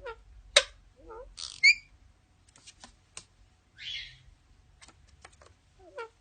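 Pet bird calling in a run of sharp clicks, short wavering chirps, hissy squawks and a few high whistled notes; the loudest are a sharp click under a second in and a whistled call a little later.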